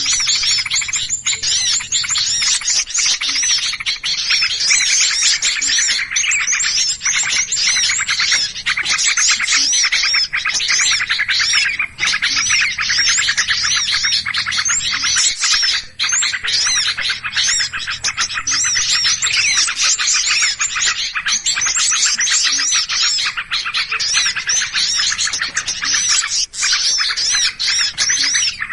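A dense racket of many small birds chirping at once, rapid high calls overlapping without pause: a lure recording of agitated small birds.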